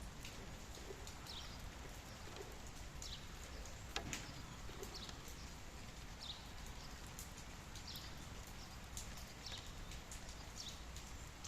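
Steady rain falling, with a bird giving short high chirps that fall in pitch, about one a second. A single sharp knock sounds about four seconds in.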